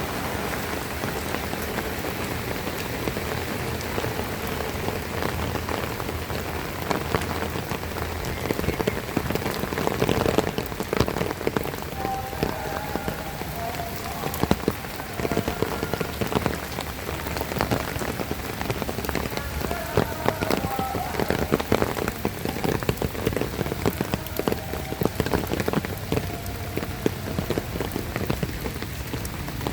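Heavy rain falling steadily, with a dense patter of drops striking nearby surfaces. A few faint short tones come through around the middle.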